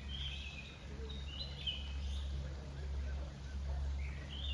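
Small birds chirping in short, repeated phrases of high notes over a steady low rumble.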